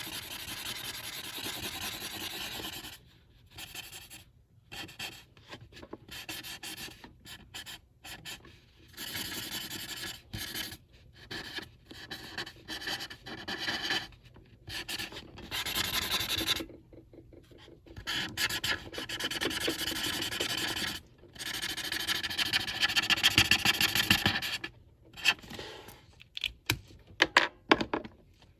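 Colouring in on paper by hand: a drawing tip rubbing back and forth in scratchy runs of one to a few seconds, broken by short pauses, with a few sharper strokes near the end.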